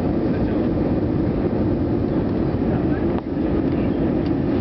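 Steady low drone of an Airbus A320's engines and airflow, heard from inside the passenger cabin.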